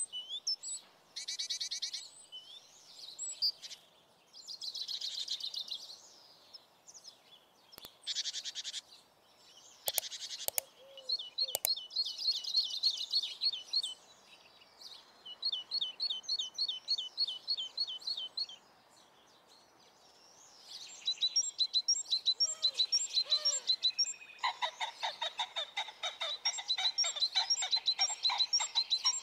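Songbirds singing: a run of high chirps and fast trills, one phrase after another, with a few sharp clicks about a third of the way in.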